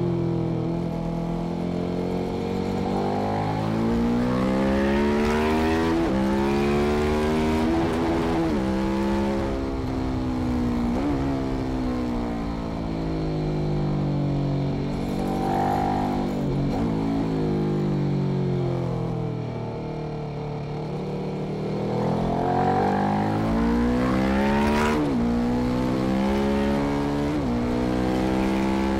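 KTM 1190 Adventure's 75° V-twin, on Arrow exhaust headers, revving hard through the gears at speed. The pitch climbs in long sweeps with a few sharp dips at the gear changes, and falls away under braking before climbing again.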